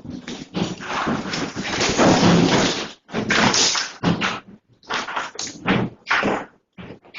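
Loud, irregular banging and rattling in clusters of knocks, heaviest about two seconds in and again about three and a half seconds in: objects and fittings shaking and knocking together during earthquake shaking.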